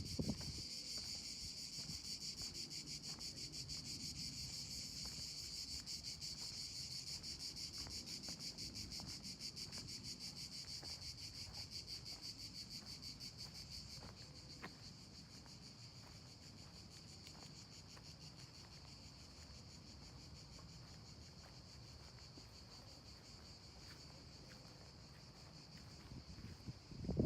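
Insects chirring in a steady, high, rapidly pulsing chorus that grows somewhat fainter about halfway through.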